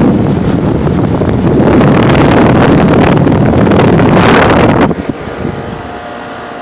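Air from the outdoor condenser fan of a Rheem 4-ton heat pump rushing loudly over the microphone, which sits right on the fan grille. About five seconds in it drops sharply to a quieter, steady running hum of the unit.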